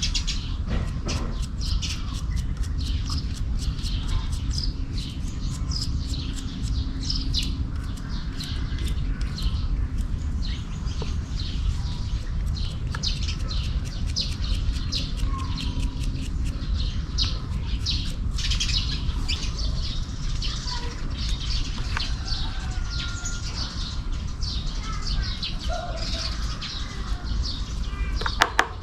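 Small birds chirping rapidly and continuously over a steady low rumble. A faint steady hum sounds through the first half, and two sharp clicks come near the end.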